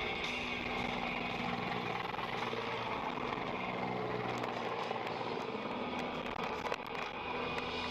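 Steady car engine and road noise while driving, with a few light ticks.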